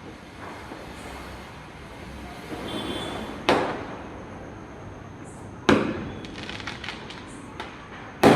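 Firecrackers bursting: three sharp bangs about two seconds apart, each trailing off in an echo.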